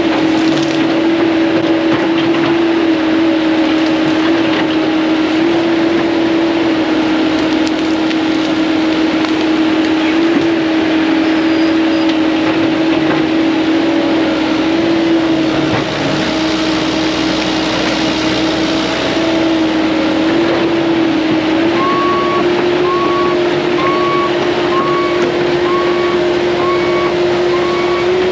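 Caterpillar 308 mini excavator's diesel engine running steadily under load while pushing trees over, its pitch shifting slightly. In the last few seconds a short high tone repeats about once a second.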